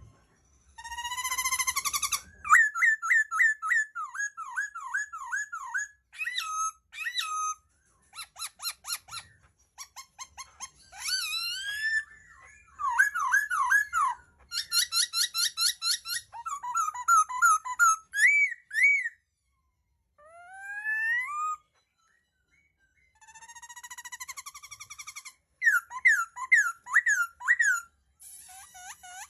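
Laughingthrush singing: a long, varied series of whistled phrases, each a run of quick repeated rising or falling notes, with short pauses between phrases.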